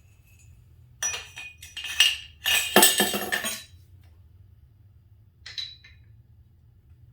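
Metal parts and tools clinking and rattling: a run of clatter for about three seconds, then a single clink about five and a half seconds in.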